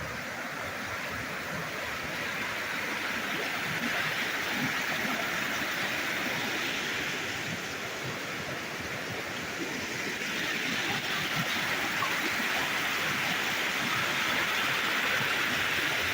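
Fast-flowing creek water rushing in a steady hiss that slowly grows louder.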